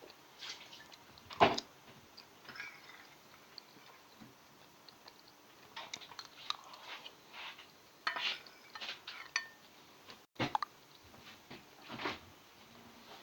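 Dishes and cutlery clinking and knocking together in scattered, irregular strikes, the sharpest about one and a half seconds in.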